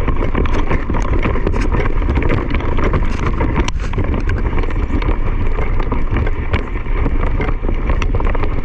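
Wind buffeting the microphone of a camera moving at speed, a loud steady rumble with many small clicks and rattles.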